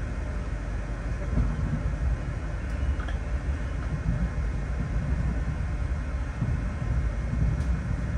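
Low, steady rumble of a passenger train pulling slowly out of a station, heard from inside a new-generation stainless steel economy carriage.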